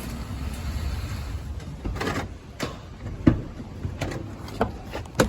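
A low steady rumble, then about half a dozen irregular knocks and thuds.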